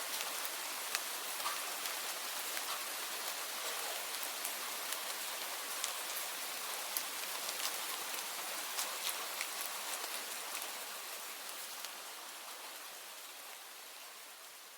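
Steady rain with many individual drops ticking sharply close by. It fades out gradually over the last few seconds.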